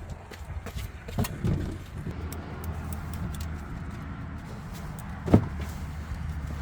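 Small metallic clicks and knocks of hand work on the folding e-bike's hinge as a screw is put back in with a Swiss Army knife, with one sharp knock about five seconds in, over a steady low hum.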